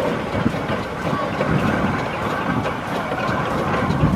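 Steam traction engine running along the road: a steady mechanical noise with faint repeated ticks over it.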